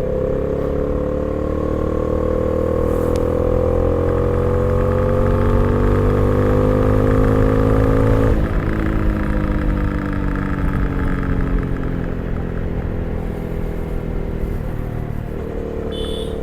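Honda CB300R's single-cylinder engine accelerating, revs climbing steadily for about eight seconds. The revs then fall away gradually with the throttle closed, and rise slightly again near the end.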